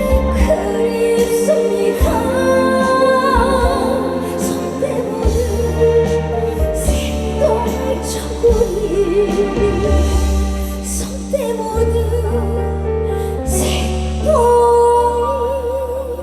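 A woman singing a trot song live over full band accompaniment, with wide vibrato on her long held notes, near the middle and again near the end.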